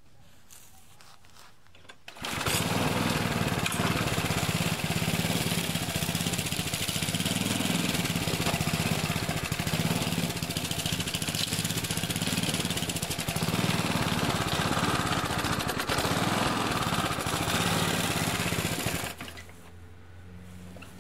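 Mountfield Emblem petrol rotary lawn mower running. About two seconds in, the sound jumps loud and stays steady as the mower is pushed through grass with its blade cutting. Near the end it drops back to the engine running more quietly.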